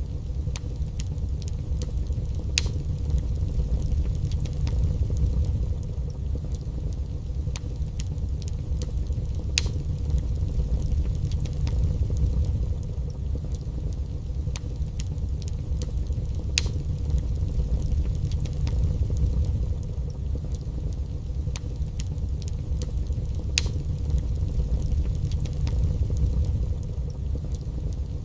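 Wood fire burning in a fireplace: a steady low rumble of flames with scattered soft crackles and a sharper pop about every seven seconds.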